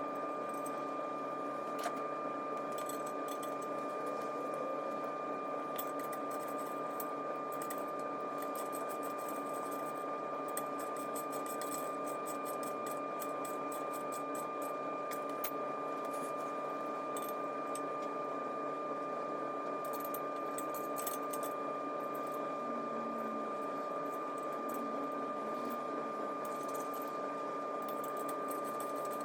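A steady mechanical hum with a high held whine, unchanging throughout, with a few faint light clicks over it.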